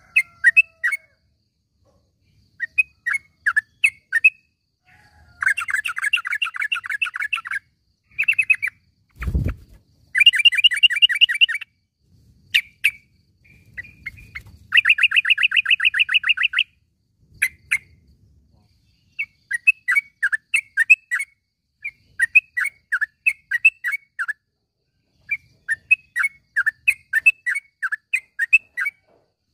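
Yellow-vented bulbul (trucukan) calling: groups of quick, clipped chattering notes and three fast trills of a second or two each. There is a brief low thump about nine seconds in.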